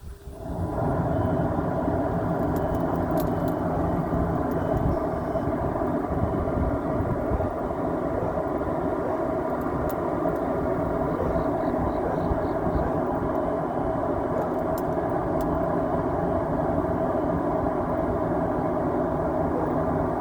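Leaf blower starting up about half a second in and then running at a steady speed, blowing air through a dryer vent duct to clear it out.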